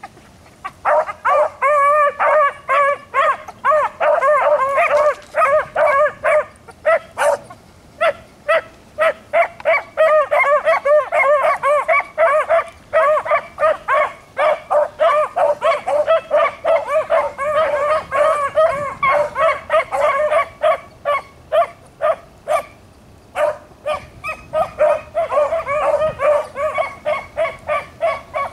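Three beagles baying in quick, short, overlapping calls, several a second, with two brief lulls: the pack giving voice as it runs a cottontail rabbit's scent trail.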